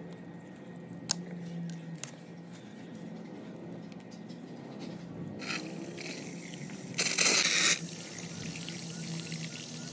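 Water running from a faucet through a hose pushed onto its spout, with a few small clicks early on and a brief louder rush of water about seven seconds in.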